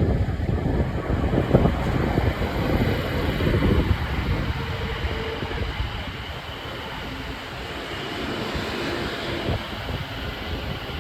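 London Northwestern Railway Class 730 Aventra electric multiple unit coming into the station: a steady rushing hum from the train with a few faint whining tones. Wind buffets the microphone heavily for the first four seconds or so, then eases.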